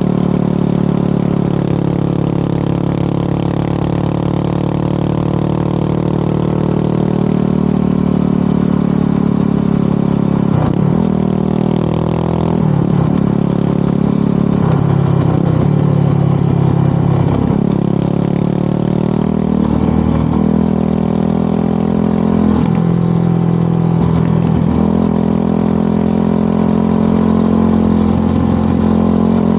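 Motorcycle engine running under way. Its pitch drops and climbs back several times in the middle stretch, roughly every two and a half seconds, as the revs change, then holds steady again near the end.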